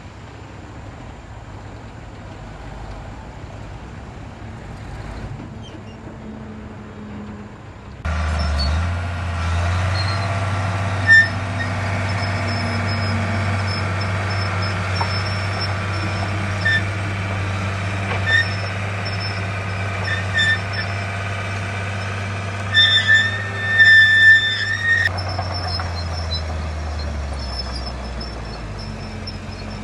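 Heavy diesel earthmoving machinery running. A quieter rumble for the first part, then a loud steady low engine drone starts suddenly about a quarter of the way in. It carries short high squeals from time to time, the strongest bunch of them about two thirds of the way through.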